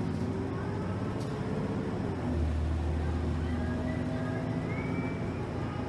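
Motor coach running down the road, heard from inside the passenger cabin: a steady low engine and road rumble that grows heavier a little over two seconds in, with a faint whine rising slowly in pitch as it picks up speed.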